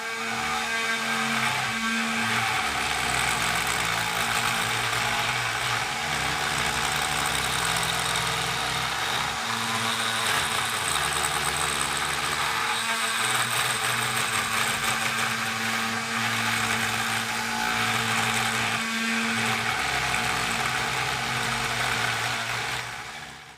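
CNC 3018 router's spindle driving a single-flute end mill through ceramic tile: a steady spindle whine over a harsh, gritty cutting noise. Underneath, a low hum changes in steps as the machine moves.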